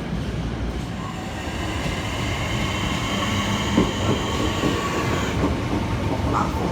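Train running on the rails, a steady low rumble of wheels with a faint high whine through the middle.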